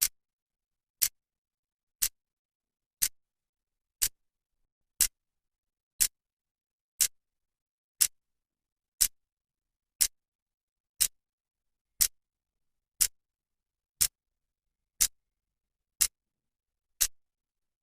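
Clock second hand ticking, one sharp tick each second, evenly spaced, with silence between ticks.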